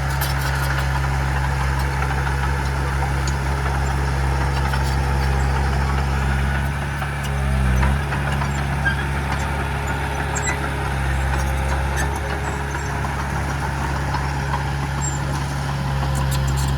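Heavy diesel engine of earthmoving machinery running steadily, its note swelling briefly about seven seconds in, with faint metallic clicks near the start.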